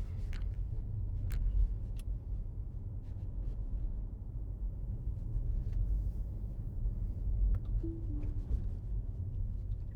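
Low steady rumble of road noise inside a moving Tesla electric car, with a few faint clicks.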